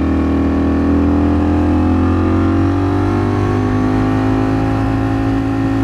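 Ducati Streetfighter V4 S's V4 engine running under way, its pitch climbing slowly and steadily as the bike gathers speed, over a steady low wind rumble.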